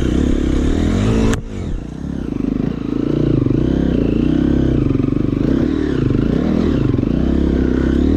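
KTM EXC 350 enduro motorcycle engine revving up and down under load on a steep, rough climb. A sharp knock comes about a second and a half in, then the engine drops lower for about a second before pulling hard again.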